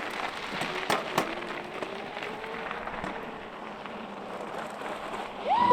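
Electric mountain bike pulling away on a dirt track: steady tyre noise on the dirt, scattered sharp clicks from stones, and a faint whine that rises and then slowly sinks in pitch.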